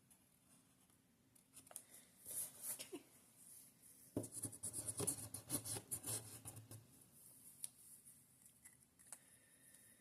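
Faint scratching of a drawing tool on paper, with a sharp knock about four seconds in followed by a few seconds of louder rustling, then scattered light clicks.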